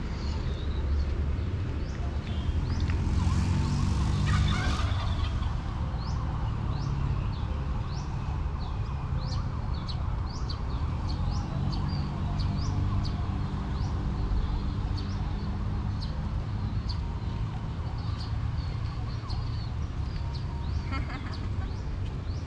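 Small birds chirping: short rising calls repeated every second or so, over a low steady hum. A brief rushing noise comes about three to five seconds in.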